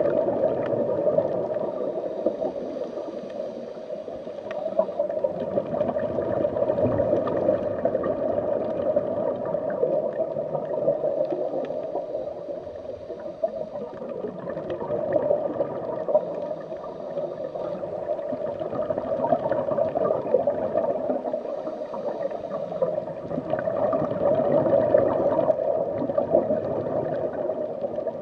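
Underwater ambience: continuous muffled gurgling and bubbling water that swells and fades every few seconds.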